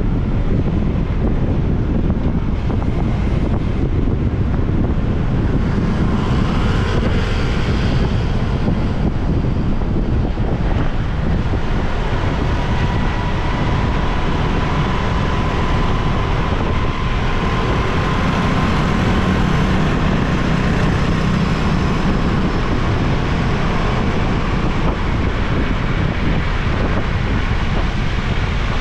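Steady wind rushing over the microphone of a motorbike on the move, over the sound of the bike and the surrounding road traffic.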